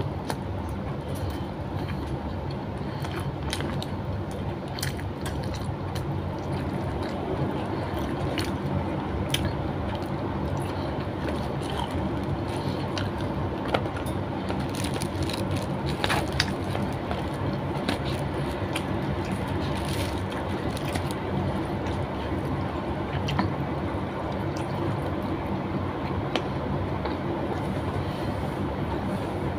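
Eating sounds: a person chewing chicken and smacking her lips, with scattered short sharp clicks, over a steady low hum.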